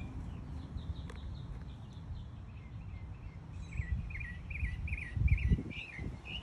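A bird singing outdoors: a quick run of short, repeated chirping notes over the last few seconds. Low rumble throughout, with a louder low thump about five seconds in.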